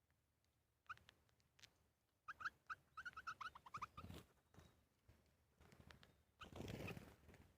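Small birds calling in short, high chirps. There is a quick run of chirps between two and four seconds in, and two brief noisy bursts: one at about four seconds and a longer one near the end.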